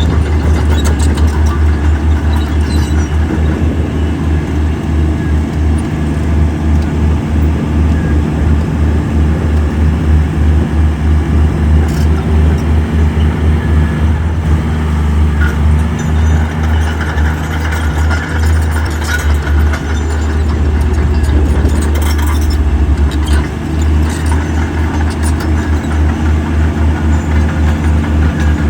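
Heavy diesel engine of earthmoving equipment running, a steady low rumble with a pulsing beat, with a few sharp knocks here and there.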